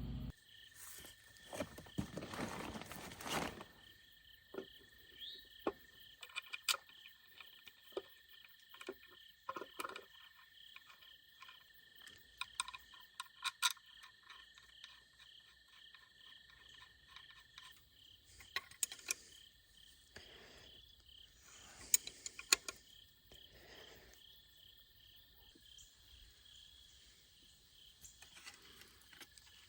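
Faint scattered clicks, knocks and short rustles of parts and hand tools being handled during engine assembly, over a steady high-pitched trill of insects.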